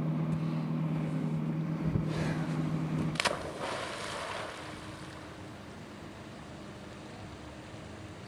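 A boat's motor runs with a steady hum, then cuts out with a sharp click about three seconds in. After that only wind and water noise remain.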